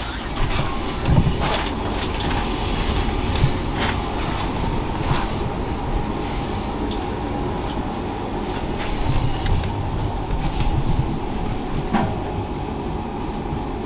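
Passenger train running, heard from inside the carriage: a steady rumble of wheels on the track, with a few sharp knocks and clicks here and there.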